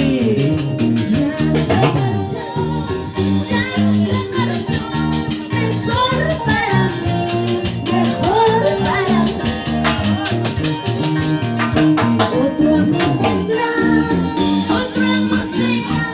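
Live Latin folk band music with a steady beat, plucked guitar and a rattle, and a lead voice singing a melody.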